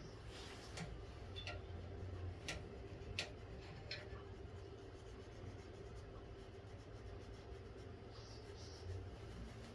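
Faint workshop handwork: a few light clicks in the first four seconds, then soft rubbing, over a steady low hum.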